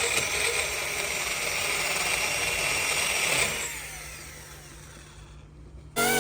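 An electric power tool or machine motor runs steadily with a high whine, then is switched off about three and a half seconds in and spins down with a falling pitch. Music begins at the very end.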